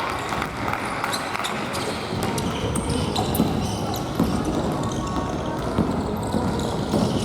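Futsal play in a gymnasium: scattered sharp knocks of the ball being kicked and bouncing on the court floor amid players' footsteps, all echoing in the large hall.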